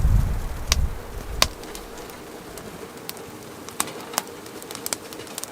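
Strong wind buffeting the microphone for about the first second and a half, then cutting away to a quieter background with scattered sharp crackles and pops from a burning wood stove.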